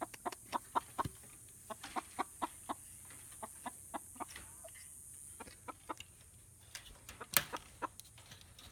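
Hens clucking in short, irregular notes as they settle on their roosting perch, with a low thud about a second in and a sharp click near the end.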